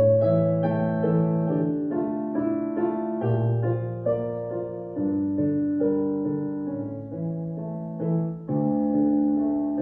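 Solo piano playing a slow, gentle piece: a melody of struck notes over sustained chords and bass notes that change every second or so.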